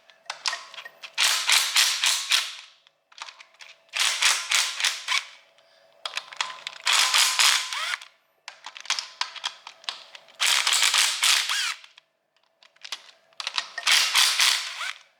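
Ratchet wrench clicking in quick bursts as bolts on a Lotus V8 cylinder head are undone, about six bursts of rapid clicks, each about a second long, with short pauses between.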